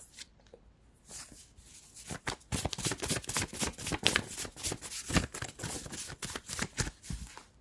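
A deck of cards being shuffled by hand, a rapid run of short card clicks that starts about two seconds in and stops just before the end.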